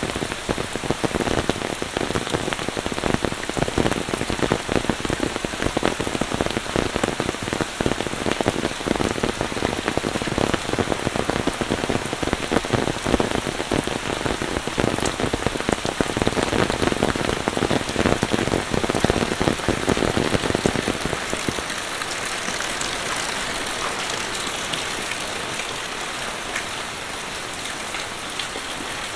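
Heavy monsoon rain with dense, close pattering of drops. About three-quarters of the way through, the heavier low pattering drops away, leaving a steadier, lighter hiss of rain.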